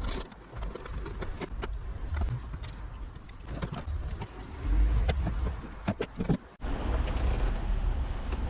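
Hand work on a car: scattered light metallic clicks and clinks of tools and parts being handled, over a low rumble.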